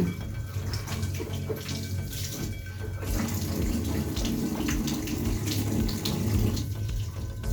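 Water running steadily, as from a tap, heavier for a few seconds in the middle, over a steady low hum.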